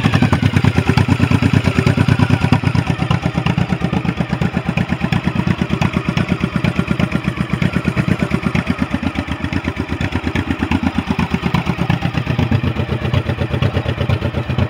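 2006 Honda Shadow Spirit 1100's V-twin engine idling, with a steady, even pulsing exhaust beat.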